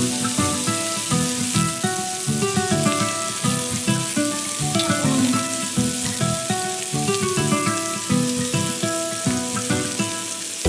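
Marinated chicken skewers sizzling in hot oil in a frying pan, under background music with held melodic notes and a steady beat.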